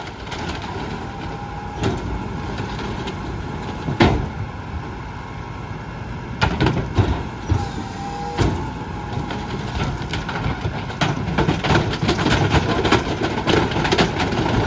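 Mack MRU McNeilus rear-loader garbage truck packing bulk trash: the engine runs under the packer while the load cracks and snaps as it is crushed. A brief whine sounds twice, and the cracking grows thicker and louder in the last few seconds.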